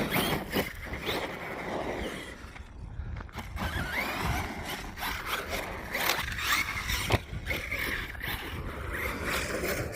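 Team Corally Kagama RC monster truck's brushless electric motor whining, rising and falling in pitch with the throttle, over the scrabble of its tyres on dirt, with a few sharp knocks.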